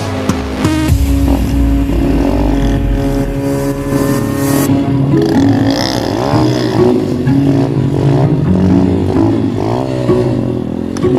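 Dirt bike engine running and revving. In the second half it revs up and down again and again in quick rises and falls of pitch.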